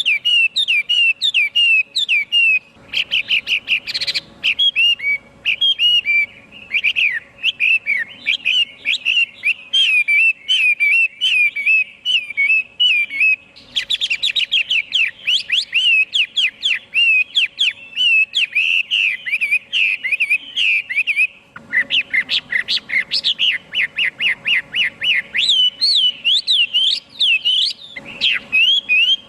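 A Chinese hwamei sings a long, fast, varied run of loud whistled notes. The phrases follow one another almost without a break, pausing only briefly a couple of times.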